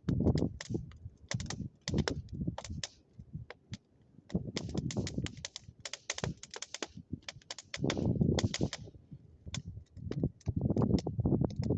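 Bonfire crackling and popping in quick irregular snaps, over low rumbling surges that rise and fall.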